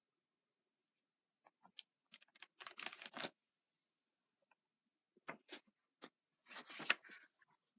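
Pages of a picture book being handled and turned: two bursts of crackly paper rustling and clicking, about one and a half seconds in and again about five seconds in.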